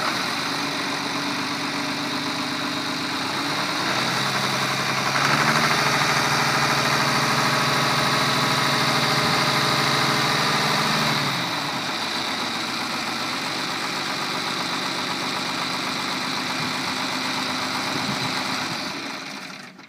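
John Deere 2940 tractor's six-cylinder diesel engine running just after starting. It idles, is revved up a few seconds in and held for about six seconds, then drops back to idle and dies away just before the end, as if shut off.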